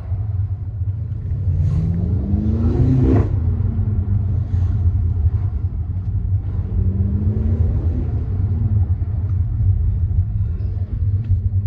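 BMW M8 Competition's twin-turbo V8 under way, a steady low rumble with the revs climbing twice. The first climb ends about three seconds in with a sharp crack, and the revs then fall.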